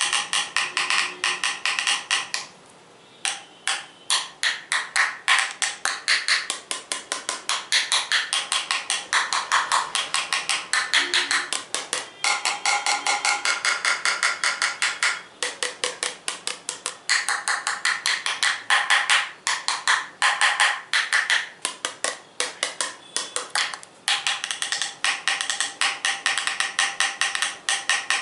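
Rapid ASMR tapping on hard objects, about three taps a second. Each tap has a short ringing tone. The tapping stops briefly about three seconds in.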